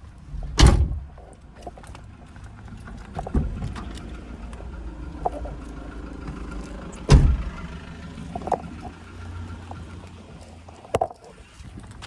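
Car engine idling with a steady low hum, broken by two loud thumps, one about a second in and another about seven seconds in, and a few lighter knocks.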